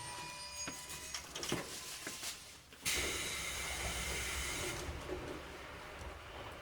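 Pneumatic air hiss from a JR Kyushu 811 series electric train standing at a station. A sudden release of compressed air starts about a third of the way in and lasts about two seconds, after a few sharp clicks.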